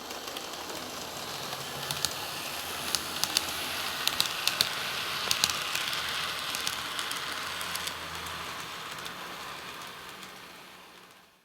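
N-gauge model diesel railcar running along the track: a steady rolling and motor whir with irregular sharp clicks from the wheels over the rail joints, fading in and then fading out.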